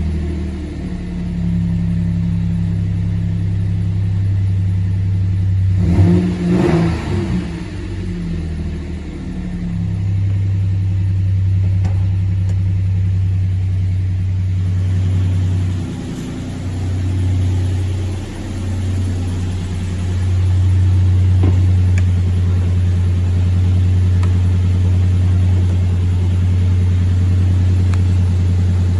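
2007 Nissan Frontier pickup's engine running steadily at idle, with a brief rise and fall in pitch about six seconds in.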